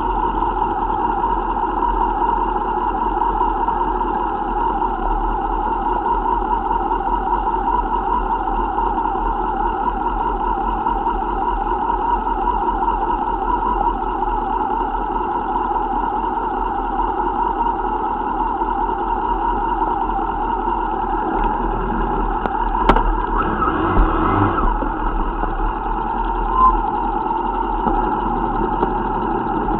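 Motorcycle engine running steadily at low revs, a constant fast-pulsing drone, with a few brief knocks about three-quarters of the way through.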